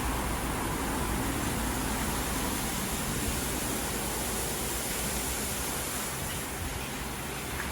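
WashTec SoftCare Pro Classic rollover car wash running, a steady rushing noise with a strong hiss and a low rumble.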